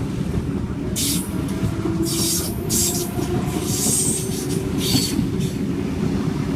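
Tangara electric suburban train running past: a steady rumble of wheels on rail, broken by several short bursts of high-pitched wheel squeal and hiss.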